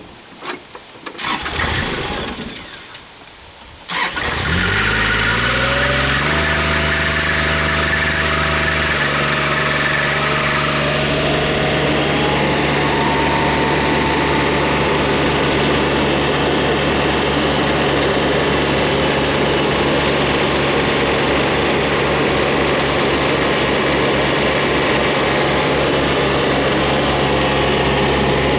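The small diesel engine of a Tennant ATLV 4300 all-terrain vacuum starts about four seconds in, rises in pitch and settles into a steady run. A few seconds later a faint whine rises in pitch, then the machine runs loudly and steadily with a rushing noise over the engine.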